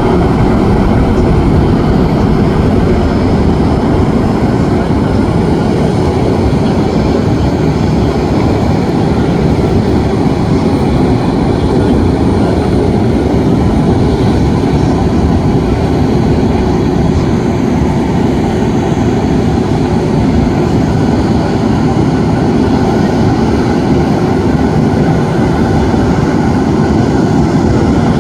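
Boeing 777-9 airliner flying, its two GE9X turbofan engines making a loud, steady, deep jet rumble that holds evenly throughout.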